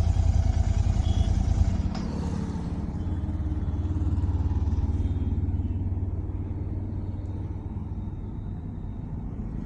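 Royal Enfield Continental GT 650's parallel-twin engine through its stock exhaust, pulsing loudly, then dropping to a quieter, steadier run after a sharp change about two seconds in.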